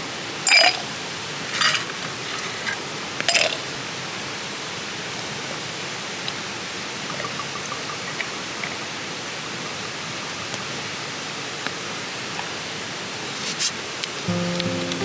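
Steady rushing of a mountain stream, broken by a few short knocks or clatters in the first few seconds and again near the end. Background music comes in just before the end.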